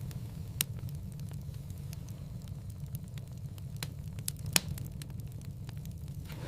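Wood fire burning in a fireplace: a steady low rumble of flames with scattered sharp crackles and pops, the loudest about four and a half seconds in.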